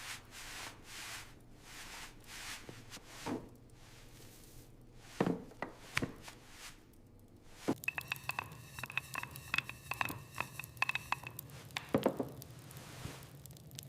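Scattered knocks and light clinks of cookware and dishes being handled, with a stretch of rapid light clicking and a faint ringing about eight seconds in.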